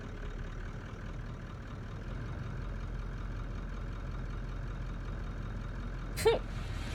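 Vehicle engine idling steadily with a low hum, not revved. A short voice-like cry comes about six seconds in.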